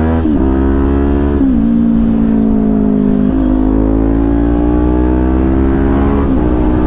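Motorcycle engine accelerating through the gears: its pitch climbs steadily and drops sharply at each upshift, four shifts in all.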